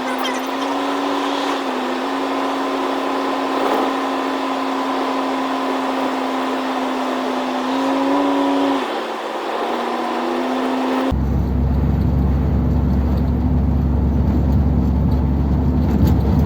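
Old Ford Thunderbird being driven, its engine and road noise heard from inside the cabin, holding a steady note that shifts a little in pitch. About eleven seconds in the sound changes abruptly to a louder, deeper rumble.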